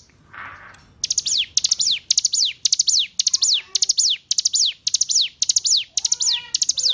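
Ciblek gunung, a prinia, singing: a fast, even series of high, sharp notes, each a quick cluster of downward-sweeping whistles, about two a second, starting about a second in. Lower wavering notes join near the end.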